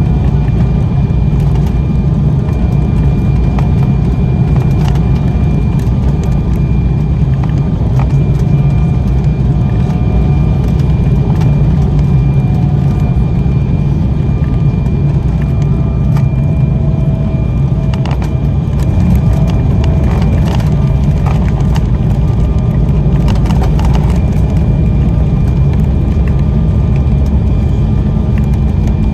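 Steady rumble of an Embraer 190 jet airliner heard from inside the cabin: the engines and airflow are running, with a faint high steady whine over them.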